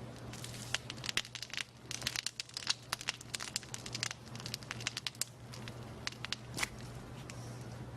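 Slime being squeezed and kneaded by hand, a dense run of crackles and pops from trapped air for the first five seconds, then sparser pops with one sharper pop near the end, over a steady low hum.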